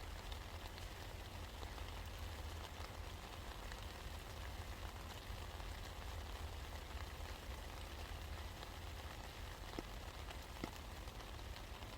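Steady rain falling, with scattered drops ticking and a steady low rumble underneath. Two slightly louder drips land a little before the end.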